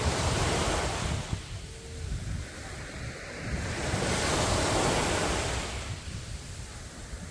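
Sea waves breaking and washing up a beach: one surge at the start and another from about four to six seconds in, easing off between them. Wind rumbles low on the microphone throughout.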